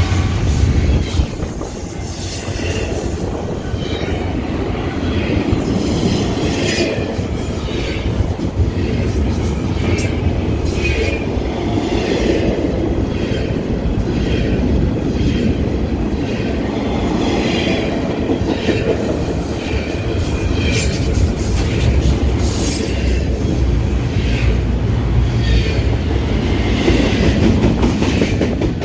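Double-stack container freight train passing close by: a loud, steady rumble of wagons rolling past, with repeated clacks of wheels over rail joints and intermittent high-pitched wheel squeal.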